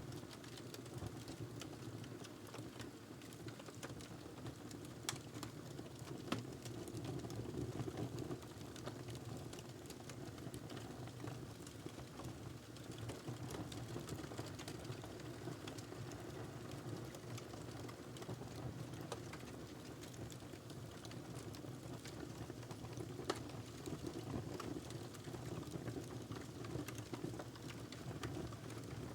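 Wood fire crackling in a fireplace: a steady low rumble of the flames with scattered small crackles and a few sharper pops, the loudest about five, six and twenty-three seconds in.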